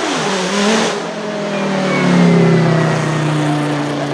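Judd GV4 4.0-litre V10 of a Dallara SP1 Le Mans prototype running at low revs. Its note drops sharply at the start, lifts briefly just before a second in, then slides slowly lower.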